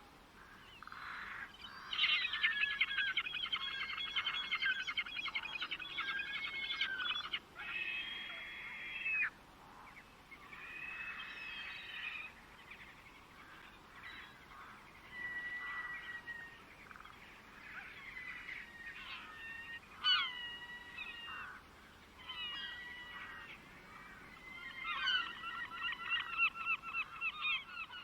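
Songbirds singing: fast chattering trills early on and again near the end, with separate whistled, sliding notes in between.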